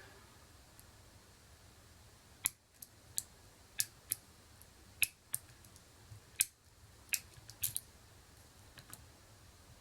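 About a dozen faint, sharp metallic clicks at irregular intervals: a tension wrench and pick being worked into a pin-tumbler lock, the metal tools tapping against the lock and its pins.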